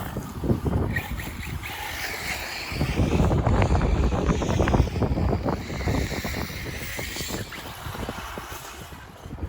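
Radio-controlled cars driving on a dirt track, their motors whining up and down while tyres crunch over dirt and gravel. Wind buffets the microphone. The noise swells from about three seconds in to about five seconds, then eases off.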